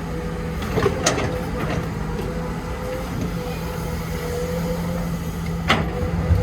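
Diesel engine of heavy construction machinery running steadily, with a couple of sharp clanks about a second in and another near the end.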